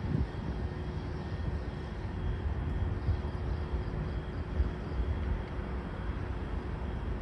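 Nishitetsu 600 series electric train running: a steady low rumble with a faint, even tone over it.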